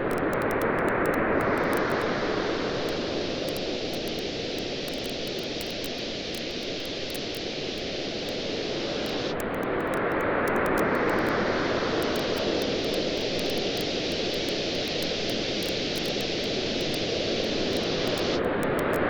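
Waves washing onto a beach in slow surges, swelling about every nine or ten seconds, with a campfire crackling in small scattered pops over the top.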